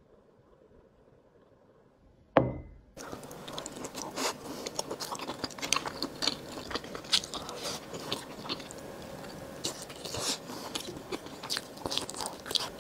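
A single thump about two and a half seconds in. From about three seconds on comes close-miked eating: a person chewing shrimp and rice, with many small mouth clicks.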